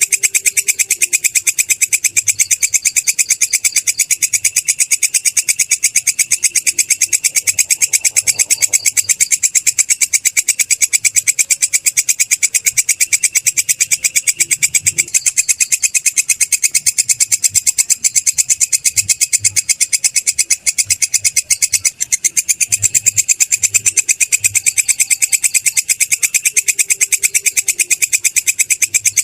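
Belalang kecek, a katydid, stridulating: a steady, rapid, unbroken train of shrill, high-pitched pulsed chirps.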